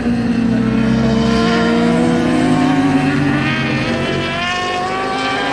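Superbike racing motorcycle engines running at high revs, the engine note climbing steadily as the bikes accelerate.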